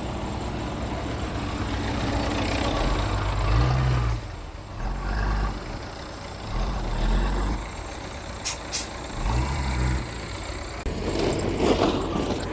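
Bulldozer's diesel engine working, its speed rising and falling several times under varying load. Two short sharp clicks come about two-thirds in.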